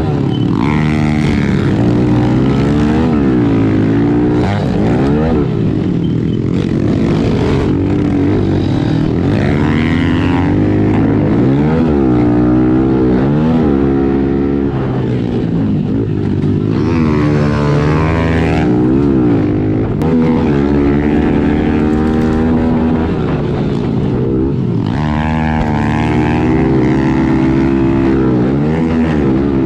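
Small single-cylinder four-stroke pit bike engines racing, revving up and dropping back over and over as the riders accelerate, shift and back off for the turns.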